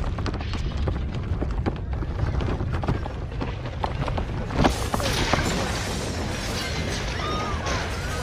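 Earthquake shaking: a deep rumble with objects rattling and clattering, and a louder crash about four and a half seconds in. After that, a harsher rushing noise takes over.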